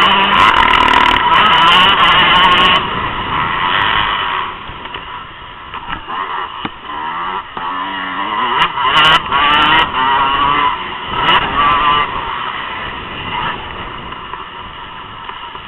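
Motocross bike engines revving up and down as they race, loudest in the first few seconds and then rising and falling more quietly.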